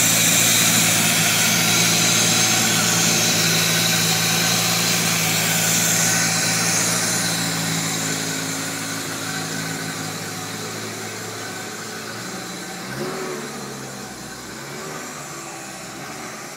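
Skoda 1000 MB's four-cylinder engine idling steadily, running again after twelve years standing. The sound grows fainter through the second half.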